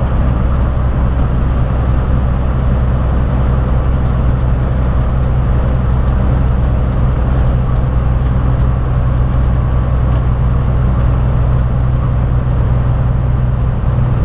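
Steady drone of a semi-truck's diesel engine and road noise, heard from inside the cab while driving.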